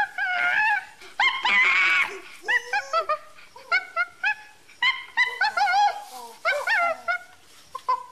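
Chimpanzee calls: rapid series of short, high-pitched hoots and squeaks, with one longer, louder scream-like call about a second and a half in.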